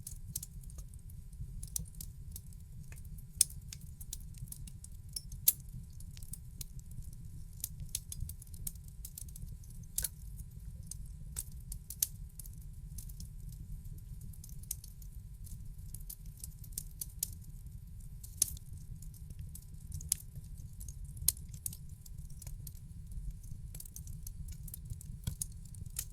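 Wood fire in a fireplace crackling: irregular sharp pops and snaps over a steady low rumble of the flames, with a few louder pops now and then.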